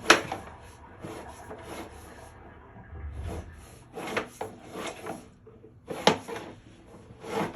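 Sewer inspection camera's push cable being fed into the pipe, scraping and rubbing, with a sharp knock at the start and two more near the end.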